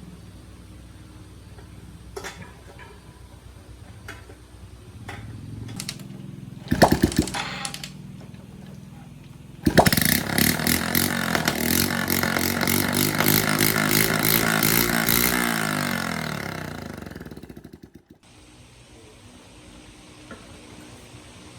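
Small motorbike engine: a short burst near seven seconds, then it starts loudly about ten seconds in and runs for several seconds. The revs fall slowly until the engine dies away just before eighteen seconds.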